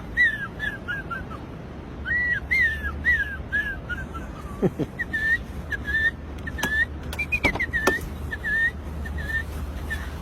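A person whistling an imitation of birdsong. It comes as phrases of quick, high chirps at about the same pitch, with some runs stepping down in pitch, and short pauses between the phrases.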